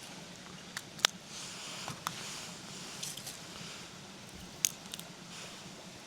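Wood campfire crackling: a soft hiss with a few sharp pops, the loudest about a second in and another near the end.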